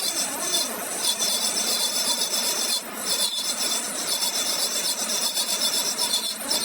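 Steady rasping, scraping noise of steel being worked on the axle shaft, pulsing quickly and unevenly in loudness.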